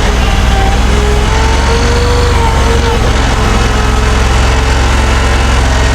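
Engine of a mini tracked skid steer running steadily at a high, even speed, with a thin whine that drifts slightly up and down in pitch.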